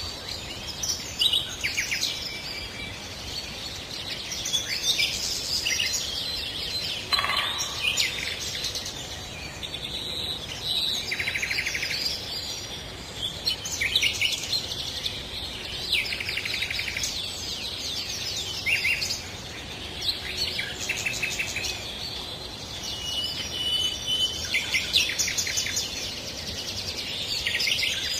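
Several songbirds singing and calling over one another: short chirps, fast buzzy trills and whistled notes, one after another, over a faint, even background hiss.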